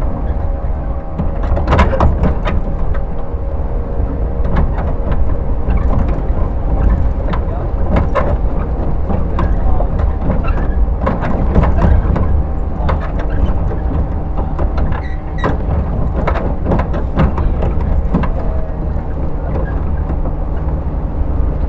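Running noise inside a JR 115 series electric train's motor car, MT54D traction motors: a steady, heavy rumble of wheels on rail with frequent clicks and knocks, over a steady motor hum.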